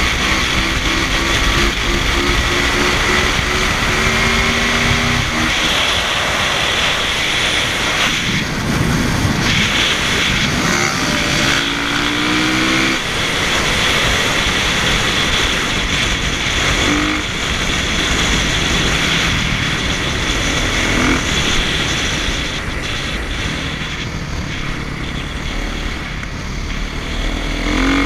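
Motocross dirt bike engines revving, their pitch rising and falling several times over a steady rushing noise.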